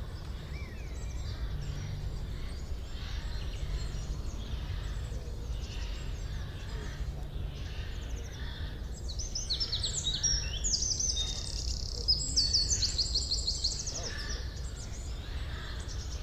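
Forest ambience of several songbirds singing over a steady low rumble, with a run of rapid, high trills from about nine to fourteen seconds in that is the loudest part.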